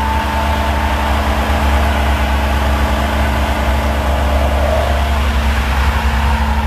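A motor vehicle's engine running steadily, a deep, even rumble with a constant hum over it.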